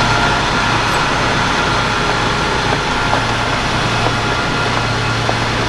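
Military truck's diesel engine running steadily, a constant low drone with a few faint clicks over it.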